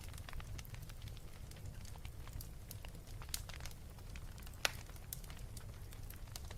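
Wood fire burning with irregular sharp crackles and pops over a steady low rumble. The loudest pop comes about two-thirds of the way through.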